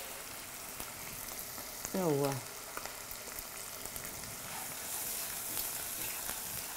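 Onions and pounded scotch bonnet pepper sizzling steadily in a little oil in a non-stick frying pan, stirred with a wooden spatula. A brief voice sound about two seconds in.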